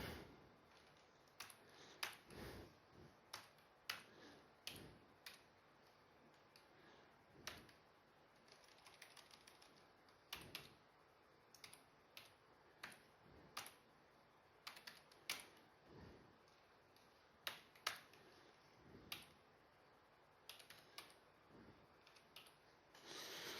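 Faint, slow keystrokes: single key clicks typed one at a time at an irregular pace of about one a second, with short pauses between runs.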